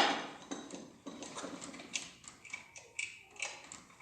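Metal-on-metal clicking and clinking as a connecting-rod cap is worked free with a magnetic pick-up tool: a sharp knock right at the start, then a run of irregular light clicks and taps.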